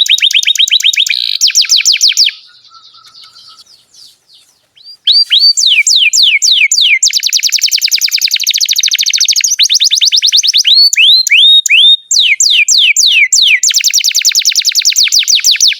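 Domestic canary singing: fast trills of quickly repeated downward-sweeping whistled notes. The song breaks off about two seconds in, resumes about five seconds in, and runs on in long rapid rolls with a brief break near twelve seconds.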